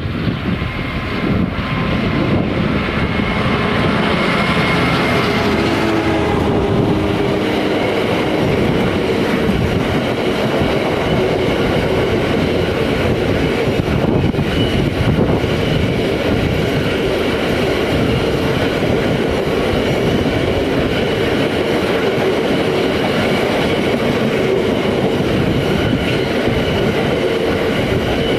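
Freight train passing close by, its wagons rolling steadily along the track with a continuous rumble and faint high tones. It grows a little louder over the first few seconds, then holds level.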